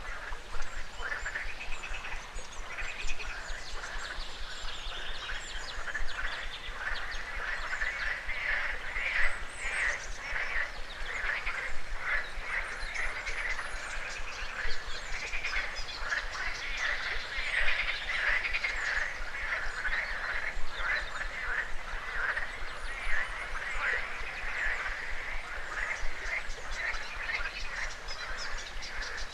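A chorus of frogs croaking, many rapidly pulsing calls overlapping with no break.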